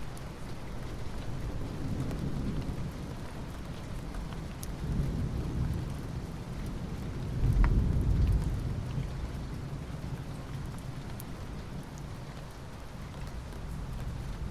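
Soft rain falling steadily on asphalt, an even hiss of drops. About halfway through, a low rumble swells and fades over a second or so.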